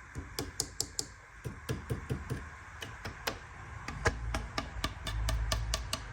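A run of light, irregular clicks and taps from hands handling the metal chassis of a 1/14 scale RC dump truck, with a low rumble in the last two seconds as the model is moved.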